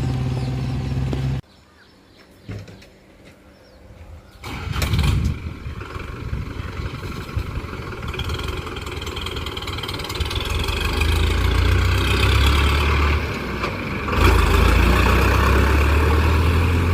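Powertrac Euro 55 Next tractor's diesel engine running, then cutting off abruptly into a short quiet spell. About four and a half seconds in, the engine starts and runs, growing gradually louder, with a further jump in loudness about fourteen seconds in.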